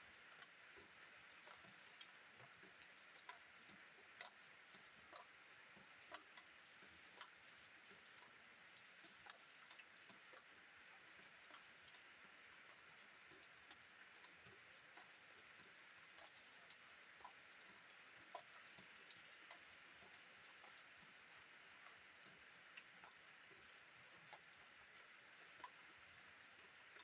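Faint, steady rain hiss with scattered individual drops ticking sharply on a surface at irregular intervals.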